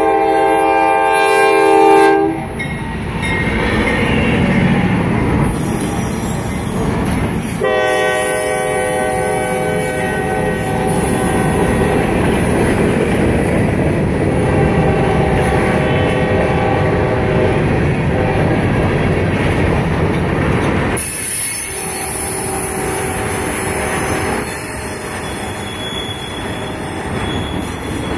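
Freight train passing close by. The lead CSX diesel locomotive's horn sounds a chord that cuts off about two seconds in. A long string of freight cars then rolls past, wheels rumbling and clacking on the rails, with held tones rising over the rumble at intervals.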